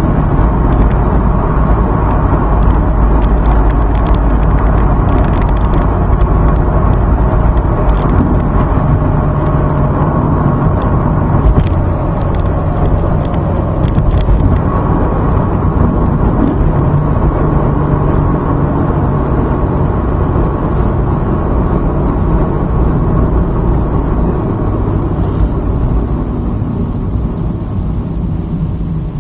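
Toyota 2JZ-GE inline-six engine running steadily as the car is driven, a constant drone with a scatter of light clicks in the first half; it eases off slightly about twelve seconds in and again near the end.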